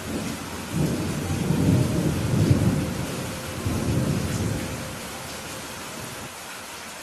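Steady rain hissing, with a low rolling rumble of thunder that swells about a second in, rolls on in two surges and fades away by about five seconds.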